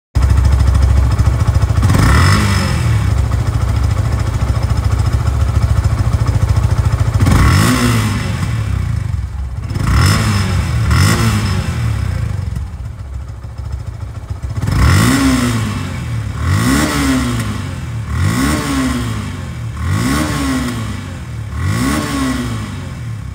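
Yamaha FZ V2 motorcycle's single-cylinder engine idling and revved in a series of quick throttle blips, about nine, each rising and falling back to idle, coming closer together in the second half. The engine has about 2,700 km on it, and the seller finds it no different from a new one.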